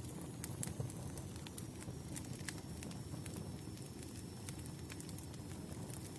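Wood campfire crackling: a steady low rumble of flames with irregular sharp pops and snaps from the burning logs. A faint thin high tone runs through it.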